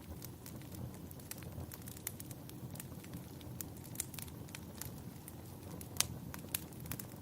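Wood fire in a fireplace crackling, with scattered sharp pops over a low steady rumble; the loudest pop comes about six seconds in.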